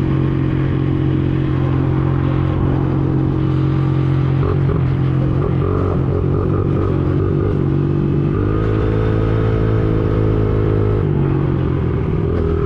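Small 50cc dirt bike engine running steadily while riding, with a low rumble of wind and road under it. The engine note steps up about eight seconds in and drops back down about three seconds later.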